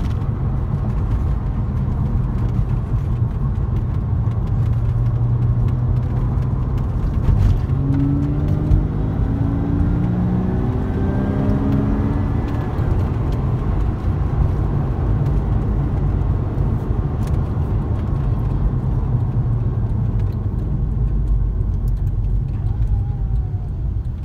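2000 Porsche Boxster S flat-six engine and road noise heard from inside the cabin while driving. About eight seconds in the engine pulls harder for a few seconds, its pitch rising, then eases back to a steady cruise.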